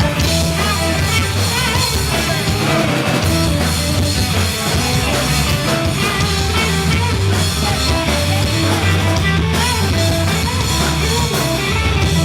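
A live rock band playing a song, with guitar, bass and drum kit.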